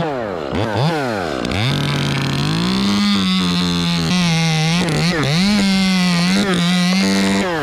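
Two-stroke chainsaw revved quickly up and down a couple of times, then held at high speed cutting through tulip poplar wood, its pitch dipping briefly a few times under load before it lets off near the end.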